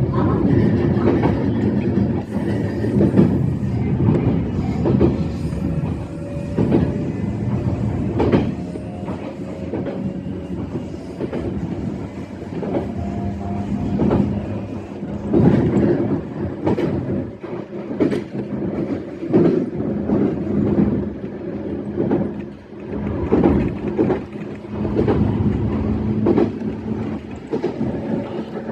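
E131-series electric train running along the line, wheels clacking over rail joints with irregular knocks. A faint whine rises slowly in pitch in the first half.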